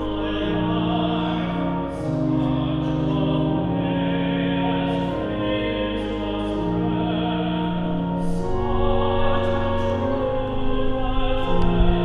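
Closing hymn: singing over held keyboard chords that change every second or two.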